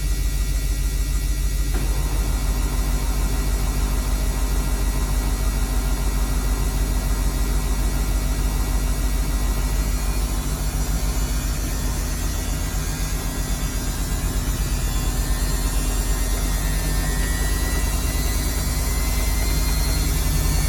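Samsung washing machine on its spin cycle: a steady low hum with a fast pulsing rattle from the spinning drum, dipping a little in the middle and building again near the end. The rattle comes with the load spinning unbalanced.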